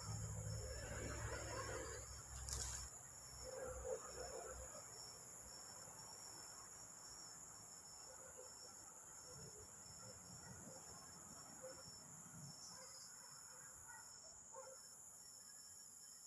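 An insect the uploader calls a locust, calling at night: a continuous, unbroken high-pitched trill. Low rumbling handling noise and a sharp click about two and a half seconds in come over it early on; after that the trill goes on alone.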